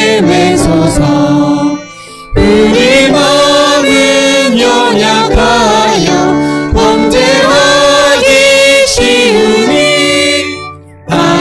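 Church worship music: voices singing a hymn together over instrumental accompaniment, with two short breaks between phrases, about two seconds in and near the end.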